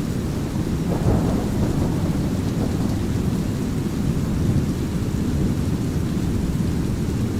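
A soundscape of steady brown noise under light rain, with a rumble of thunder that swells about a second in and slowly fades.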